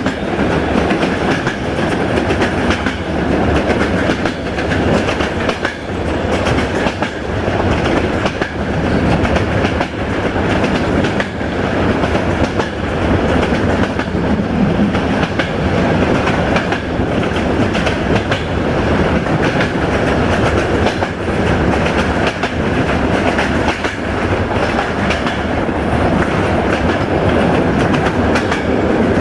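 Indian Railways passenger train (Gitanjali Express) running at speed through a tunnel, heard from an open coach doorway: a loud, steady rumble of the coaches with wheels clattering over the rail joints.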